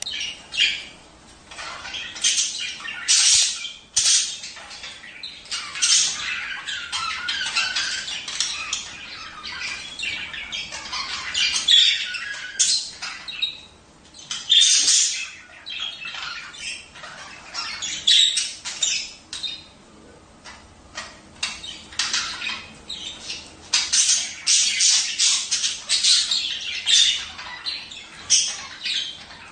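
A flock of budgerigars chattering, with a continuous mix of warbling, chirps and sharp squawks that comes in busy bursts.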